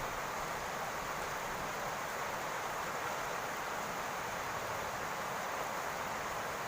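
Steady rain falling on a roof, an even hiss with no single drops standing out.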